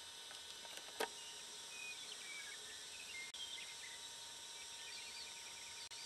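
Faint bird chirps over a steady hiss of outdoor background noise, with one sharp click about a second in.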